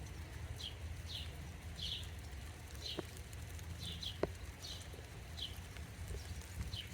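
A bird calling over and over with short, high, slightly falling notes, about two a second, over a steady low rumble. Two sharp ticks land about three and four seconds in.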